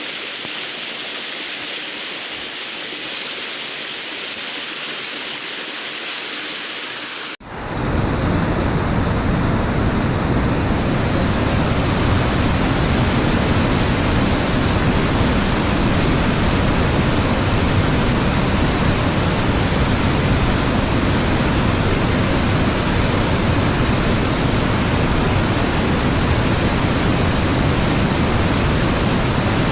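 Steady rush of falling water from a waterfall; about seven seconds in it cuts abruptly to a louder, deeper rush.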